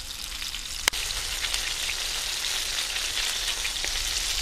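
Chicken wings shallow-frying in plenty of hot oil in a frying pan over a wood fire: a steady sizzle with small pops and crackles. A single sharp click about a second in.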